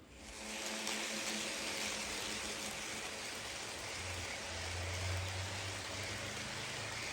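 HO scale model passenger cars rolling along the track: a steady hiss of metal wheels on rail that starts abruptly, with a low hum joining about four seconds in.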